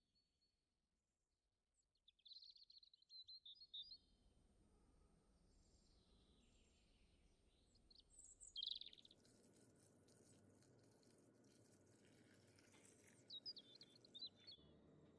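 Faint bird chirps in three short bouts, about two, eight and thirteen seconds in, the middle one the loudest, over a low steady hiss.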